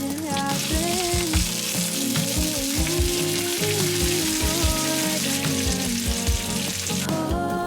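Food sizzling in a hot frying pan, fading out near the end, over background music with a melody and a steady beat.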